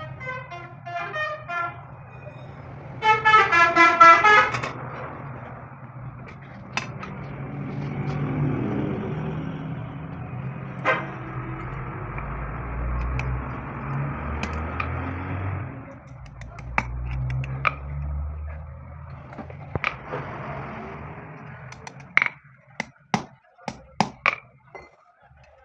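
A vehicle horn sounding: a short pulsing toot at the start, then a louder blast of about a second and a half about three seconds in. A low engine-like hum follows in the middle, and several sharp metallic clinks come near the end.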